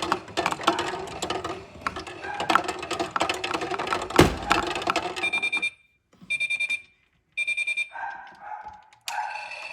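Clattering and knocking of small plastic objects being handled, then an electronic beeper sounding three short bursts of rapid beeps, about a second apart.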